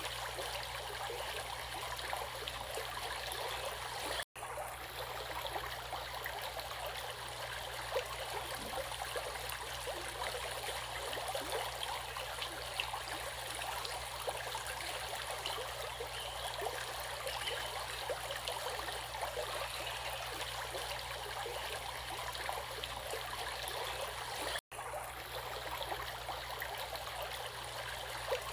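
Water of a stream running steadily, a continuous even rushing hiss with a gentle trickling texture. It cuts out for an instant twice, about four seconds in and again a few seconds before the end.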